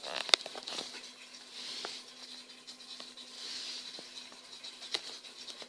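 Small plastic toy pieces handled by hand: scattered light clicks and taps, the sharpest about a third of a second in, with soft scratching and rustling between them.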